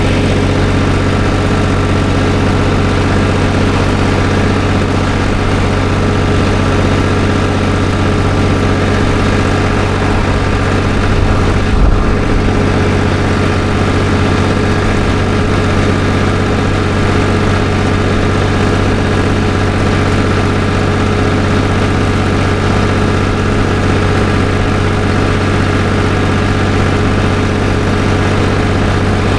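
Farm tractor engine running steadily at a constant speed while driving, with a brief low thump about twelve seconds in.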